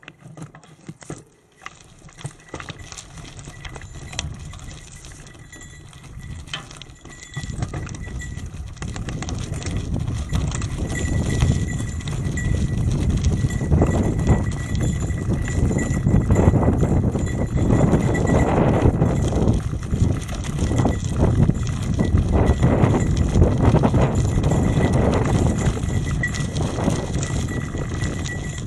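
Trek 8.3DS hybrid bicycle ridden over a rough forest road: tyre rumble with constant rattling and knocking from the bike over bumps. It gets louder about seven or eight seconds in as the bike picks up speed.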